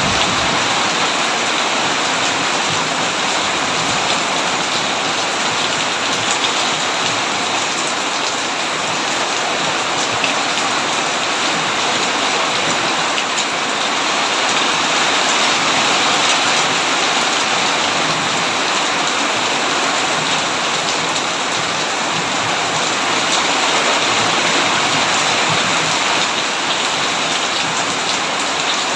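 Heavy rain pouring steadily, an even, dense hiss with no thunder.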